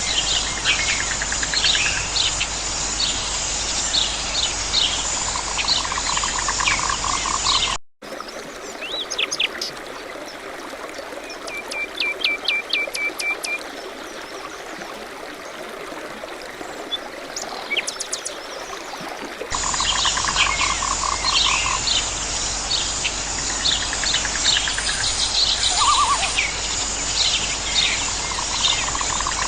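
Dense outdoor chorus of birds chirping and calling, with a low pulsed trill that comes back every few seconds. About eight seconds in, the sound switches abruptly to a quieter recording of sparser bird chirps and short trills. The busier chorus returns about twelve seconds later.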